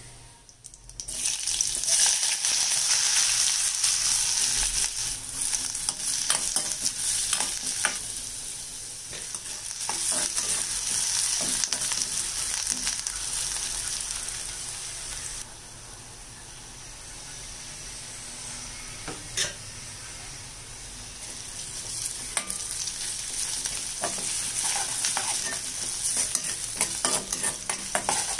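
Chopped onions frying and sizzling in hot oil in a hammered steel kadai, stirred and scraped with a metal spoon. The sizzle starts loud about a second in, drops suddenly to a softer level around the middle, and builds again near the end with frequent clicks of the spoon against the pan.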